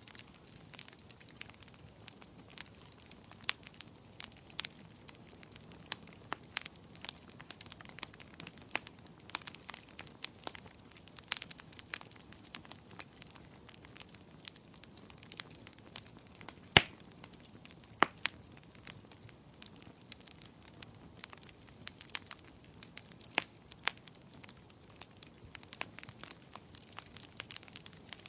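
Wood fire crackling: irregular sharp pops and snaps over a soft, steady hiss, with a louder pop about two-thirds of the way through.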